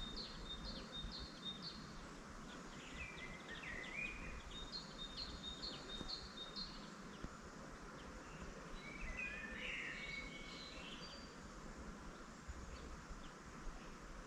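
Songbirds singing: one bird repeats a phrase of short, evenly spaced high notes twice, and another gives a jumbled warble about nine seconds in, over a steady low background rumble.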